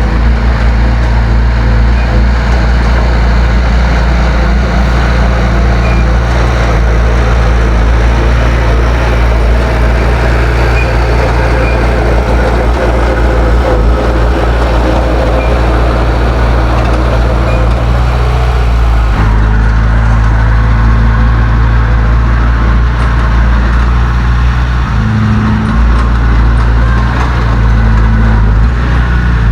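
Heavy diesel engine of earthmoving machinery running steadily and loudly, its note shifting about two-thirds of the way through.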